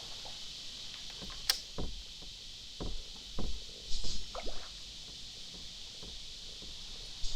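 A scatter of short knocks and thumps against a kayak hull, several in the first half and one more near the end, over a steady high hiss.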